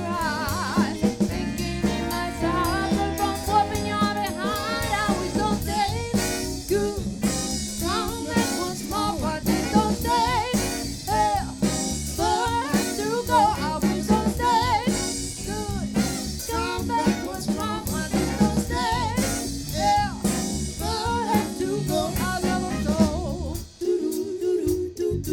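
Live band playing with vocals over drum kit and bass; near the end the drums and bass drop out, leaving a held chord.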